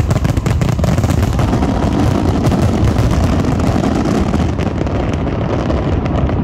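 Fireworks display: a dense, continuous barrage of bangs and crackles running together into a loud rumble.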